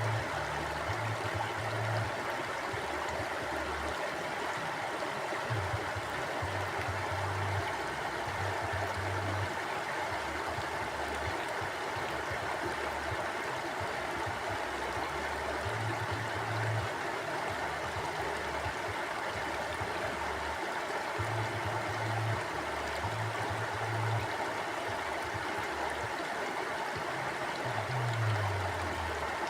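Mountain stream flowing steadily, a constant rushing water sound with a low rumble underneath that comes and goes every few seconds.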